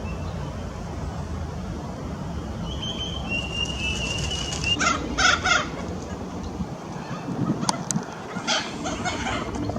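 Sulphur-crested cockatoos giving harsh screeching calls: a quick run of three loud squawks about five seconds in and more near the end, after a brief thin whistle.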